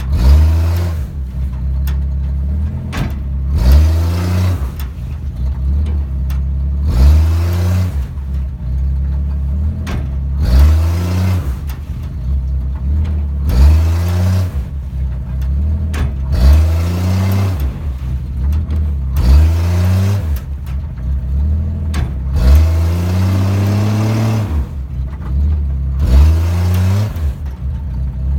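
Two-wheel-drive pickup stuck in slippery mud, its engine revved hard about nine times, roughly every three seconds, each rev rising in pitch and falling back, with a rush of spinning tyres as the wheels slip in the mud.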